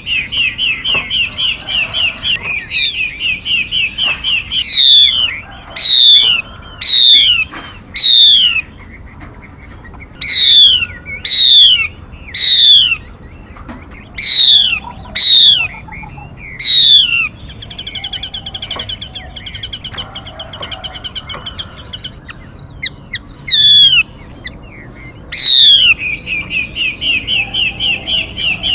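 Female 'mi' bird calling, as used in a trapping lure recording. It gives loud, steeply falling whistles, repeated many times and often in quick pairs, between stretches of a fast, even chattering trill.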